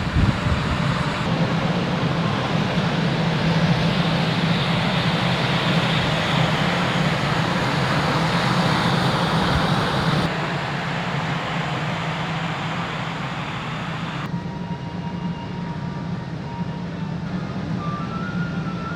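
Steady low machinery drone and hiss aboard a large car ferry, a constant deep hum under a broad rushing noise. The noise changes abruptly about ten and fourteen seconds in.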